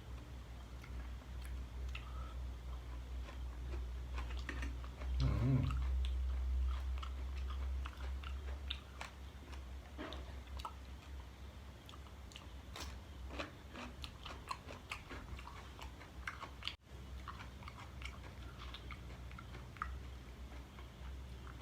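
A person chewing and biting spicy chicken-feet salad, with scattered small crunches and clicks from the cartilage and skin. A louder low rumble comes about five seconds in.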